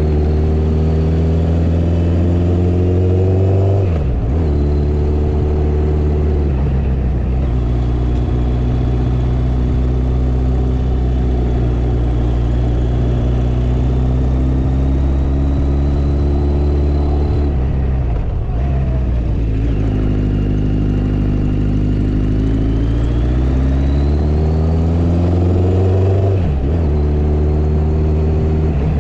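Motorcycle engine running under load, its pitch climbing as it speeds up and dropping sharply at gear changes: about four seconds in, about eighteen seconds in and again near the end.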